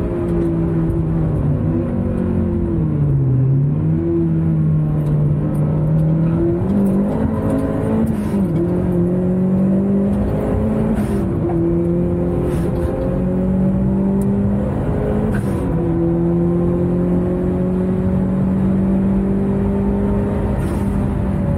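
Car engine under hard acceleration, heard from inside the cabin. Its pitch climbs steadily and drops sharply several times as the car shifts up through the gears.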